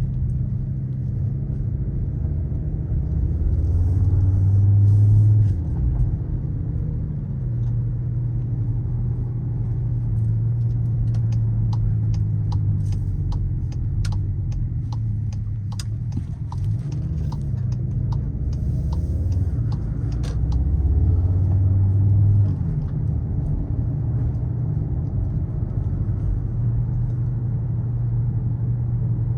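Skoda Kodiaq RS's 2.0 TSI turbocharged four-cylinder petrol engine and exhaust running under way, with a steady low engine note over road noise. Twice the note builds louder under acceleration and then drops off abruptly. A run of light clicks comes in the middle.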